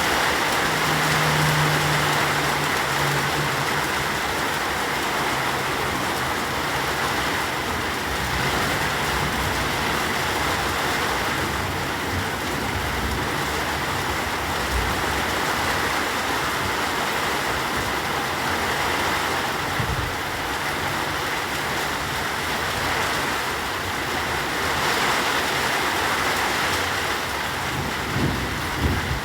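Rain falling steadily, an even hiss of drops, with a faint low hum in the first few seconds and a few low thuds near the end.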